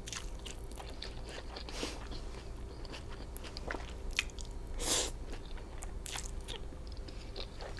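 Close-miked chewing of a mouthful of spring roll bowl (rice vermicelli noodles, vegetables and shrimp): a run of small wet crunches and mouth clicks, with one louder noisy sound about five seconds in.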